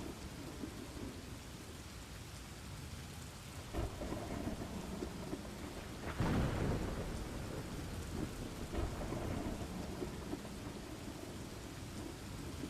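Steady rain with rolling thunder. Low rumbles swell a few times, the loudest about six seconds in.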